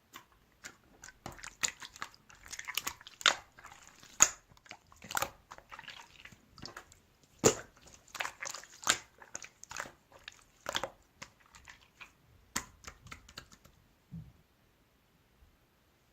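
Slime being squished and pressed by hand, giving irregular sharp clicks and popping crackles. It stops about two seconds before the end, leaving one soft low thump.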